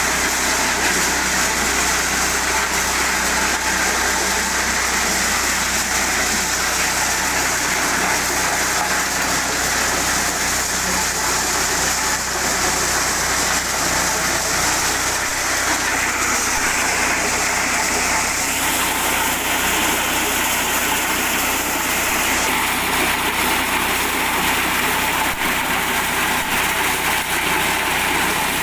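Mini corn sheller driven by an 8 hp gasoline engine, running steadily: a continuous engine hum under a dense hiss of the machine at work.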